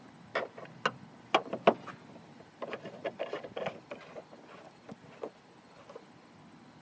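Irregular clicks and knocks of the camera and its mount being handled and repositioned, loudest about one and a half seconds in, with a busy patch around three seconds in, thinning out towards the end.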